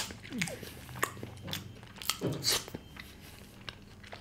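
Close-up mouth sounds of a person chewing a piece of chicken malai tikka: soft wet chewing with small clicks and smacks. A short hum comes about two seconds in.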